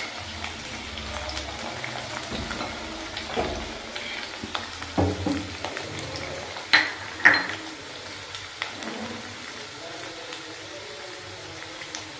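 Potato cubes frying in hot oil in a steel kadhai: a steady sizzle. A few short metal clatters break in, the two loudest about seven seconds in.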